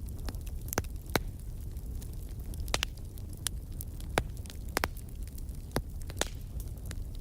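Wood fire in a fireplace crackling, with sharp irregular pops over a low steady rumble.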